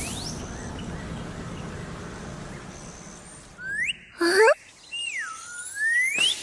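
Cartoon sound effects: a fading hiss, then from a little past halfway several quick whistle-like glides that swoop up and down in pitch.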